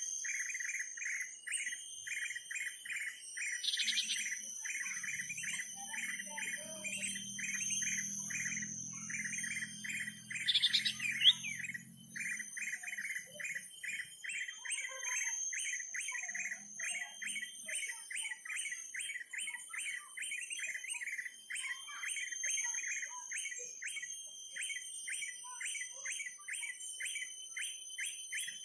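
Rapid, evenly repeated bird chirps, about four a second, going on without a break, with a steady high-pitched whine above them. A faint low drone sits underneath for several seconds early on.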